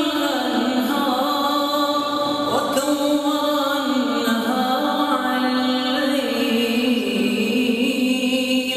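An imam's voice chanting Arabic in a drawn-out melodic style, with long held notes that slide from one pitch to the next.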